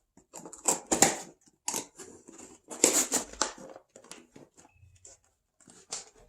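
Parts packaging being handled and torn open: irregular crinkling and tearing of plastic and paper wrapping, loudest in two bursts about one and three seconds in.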